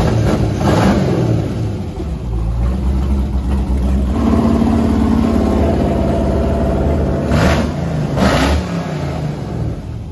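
LS-style V8 engine running on its first start-up, idling with sharp throttle blips: one about a second in and two close together near the end.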